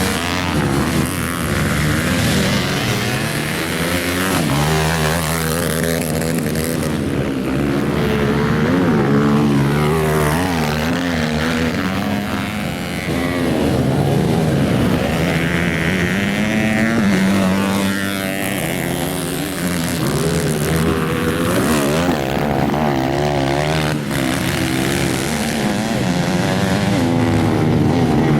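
Several grasstrack motocross motorcycles racing, their engines overlapping and revving up and down as the bikes accelerate and back off.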